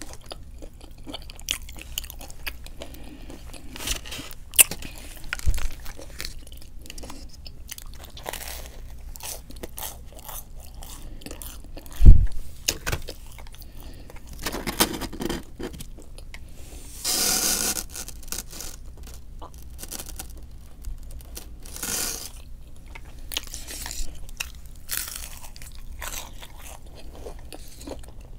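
A person chewing and crunching food close to the microphone, with frequent small crunches and mouth sounds. A single dull thump about twelve seconds in is the loudest sound, and a louder, noisier sound lasting about a second comes a few seconds later.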